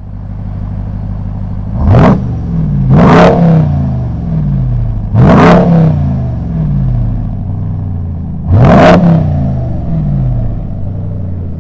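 Car engine revving in a produced sound-effect sequence: four sharp revs about 2, 3, 5.5 and 9 seconds in, each with a quick rising whoosh, and the engine note falling away in steps between them.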